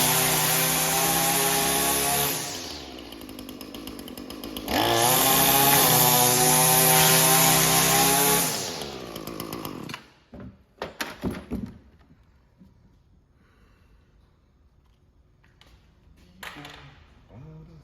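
Echo string trimmer's two-stroke engine running at high revs, dropping to idle about two seconds in, revving up again for about four seconds, then winding down and stopping about ten seconds in, followed by a few clicks and knocks. It is being test-run after a clutch replacement.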